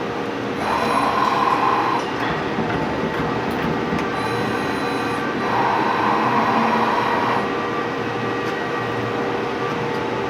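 CNC lathe running with a steady hum. Twice, about five seconds apart, it grows louder for a second or two, typical of the tool taking a threading pass.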